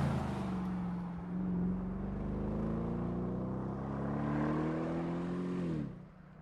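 Bentley Continental GT V8 S's twin-turbo V8 accelerating, its engine note climbing steadily for several seconds, then falling sharply and cutting off near the end.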